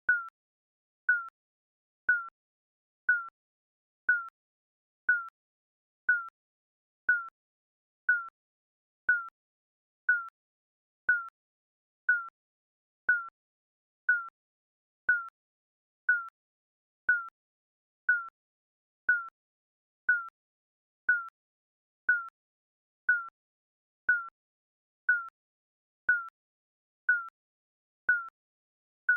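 Digital countdown timer beeping once a second: a short, high single-pitch beep that fades quickly, evenly spaced.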